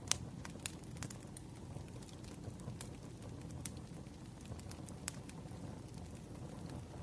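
Campfire crackling: a steady low rush of burning wood with scattered sharp pops and snaps, the loudest just at the start.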